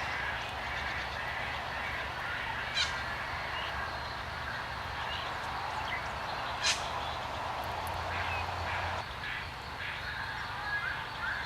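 Birds calling in a dense mix of short, harsh chattering calls, with two sharp clicks, about three and seven seconds in.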